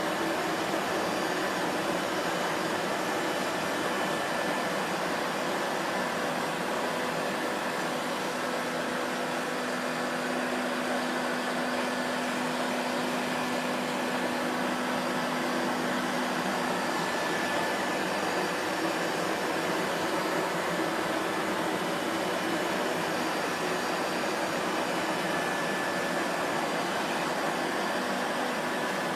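Vacuum cleaner motor running continuously with a steady whooshing hum and faint whine, no change in pace or load.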